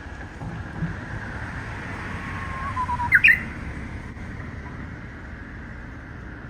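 Japanese bush warbler (uguisu) singing an odd phrase: a held whistle of about a second, then a quick rising flourish about halfway through, the loudest moment. The unusual song may be a young bird still practising. A low steady rumble lies underneath.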